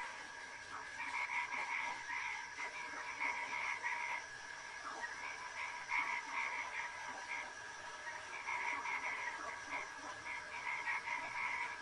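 Frogs croaking in repeated bouts of quick pulsed calls, over a steady high hum.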